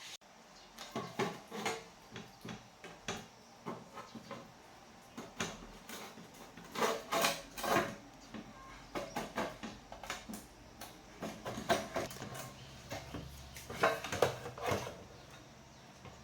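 Irregular clinks, knocks and clatter of small hard objects being handled and set down, like metal tools and parts during repair work, with louder clusters about seven seconds in and near the end.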